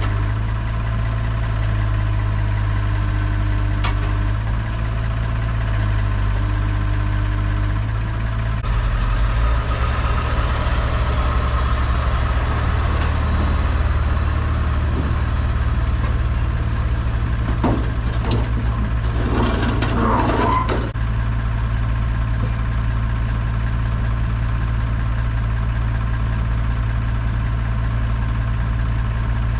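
Heavy-equipment engine running steadily, its note rising under load for several seconds about a third of the way in. About two-thirds in there are a few clicks and a short rushing burst.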